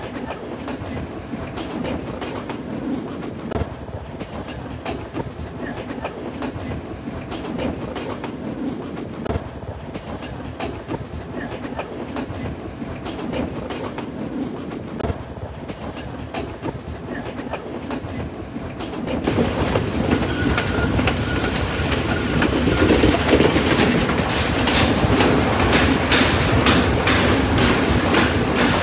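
Passenger train running: a steady rumble with wheels clicking over rail joints, turning louder and brighter about nineteen seconds in.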